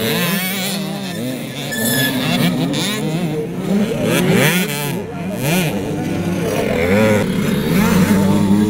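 Several 65 cc two-stroke youth motocross bikes racing, their engines revving up and dropping again over and over, several overlapping at once.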